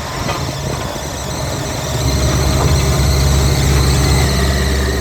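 Heavy diesel machine engine running with a high-pitched squeal over it; the engine grows louder about two seconds in.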